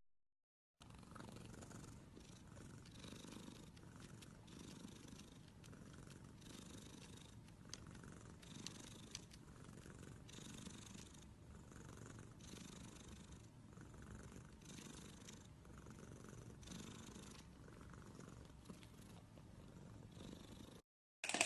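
Domestic cat purring very faintly, the purr swelling and fading in an even rhythm with each breath.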